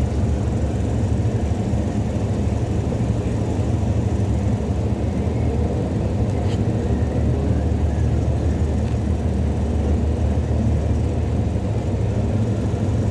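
Steady low hum with no change in level or pitch.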